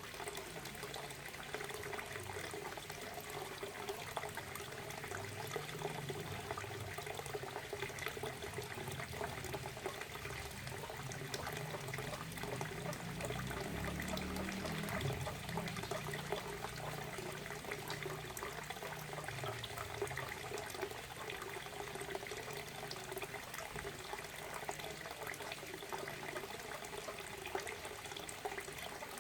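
Waterfall: water falling and splashing in a steady, continuous rush, with a low rumble that swells for a few seconds around the middle.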